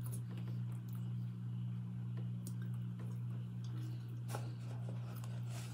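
Soft chewing and mouth sounds of someone eating French fries, with a few faint crunchy clicks, over a steady low hum.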